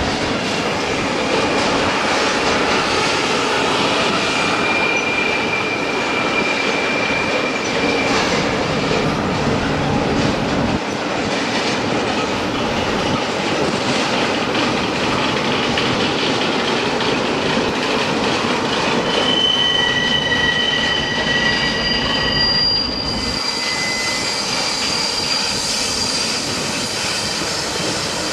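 Railway wagons rolling along the track, a steady loud rumble with clickety-clack and steel wheels squealing in long, high, steady tones. The sound changes abruptly about 11 seconds in and again about 23 seconds in.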